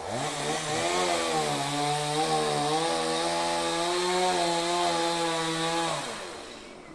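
Chainsaw revved up and run at high, steady speed for about six seconds while cutting wood, its pitch dipping slightly a second in, then throttled back and dying away near the end.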